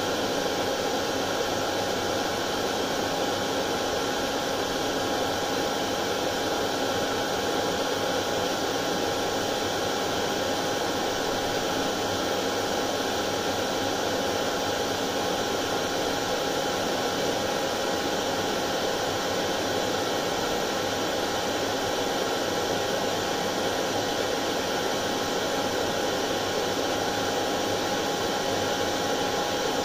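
Hair dryer running steadily: a constant whooshing noise of the fan and blowing air with a faint steady whine on top.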